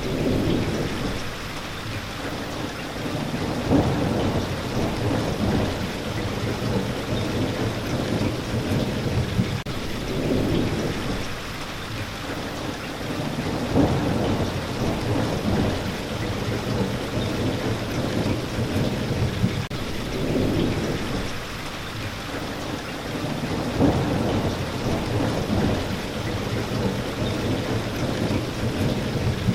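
Steady rain with low rumbles of thunder that swell and fade every few seconds.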